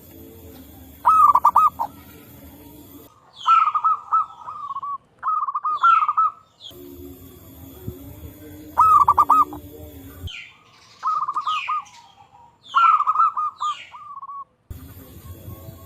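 Zebra doves (perkutut) cooing: about seven short phrases of rapid cooing notes, several birds seemingly answering one another. Short falling whistles sound between the phrases, and a low background hum cuts in and out abruptly.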